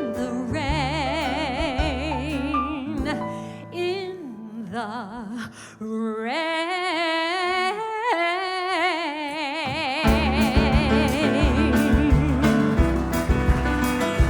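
A female singer holds long notes with a wide vibrato over live band accompaniment, her voice climbing in the middle. The low accompaniment drops away, then comes back full about ten seconds in.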